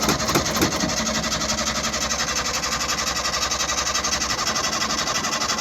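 A starter motor cranks the Morris Minor's four-cylinder engine over steadily and evenly without it catching: the ignition is not connected, so the engine cannot fire.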